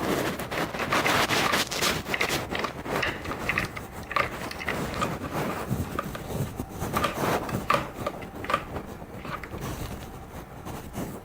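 Irregular scraping, clicking and knocking of objects being handled, with no steady rhythm, easing off toward the end.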